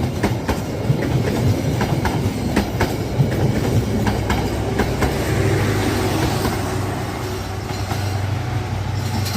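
Passenger train running past, its wheels clacking over rail joints in quick irregular knocks over a heavy rumble. About five seconds in the clacking thins out and a steady low hum carries on.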